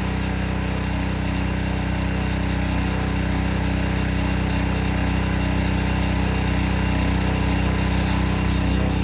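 Hot water pressure washer running steadily: the machine's hum under a continuous hiss of high-pressure hot water spray blasting baked-on grease off equipment with plain water.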